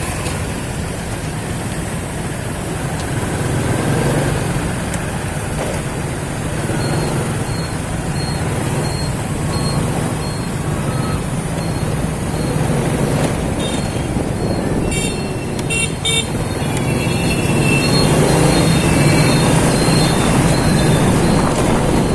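Motorcycle riding in busy city traffic: a steady engine hum under road and traffic noise, with horns beeping in quick short blasts about two-thirds of the way through.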